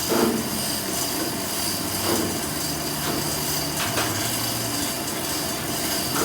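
Work noise of scraping and knocking: three sharp knocks about two seconds apart, over a steady hum of machinery.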